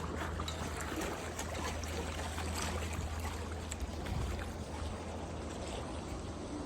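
Boat motor running steadily with a low hum, with water rushing and splashing along the hull while underway.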